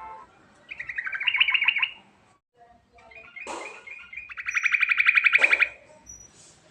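Yellow-vented bulbul singing its rolling song in two bursts of fast rattling trills. The first slides down in pitch. The second runs into a long, even trill that stops about five and a half seconds in.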